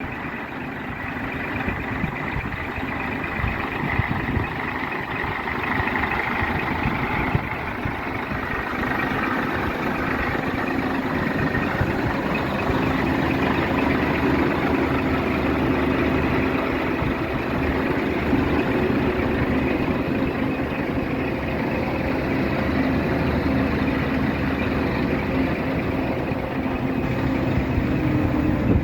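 Diesel engine of a Scania R 420 six-wheel-drive truck running steadily at idle, a little louder about twelve seconds in.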